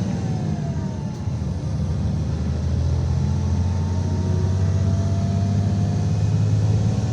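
IVECO Crossway 13M PRO city bus under way, its engine drone steady and low. A whine falls in pitch during the first second, then another rises slowly from about four seconds in.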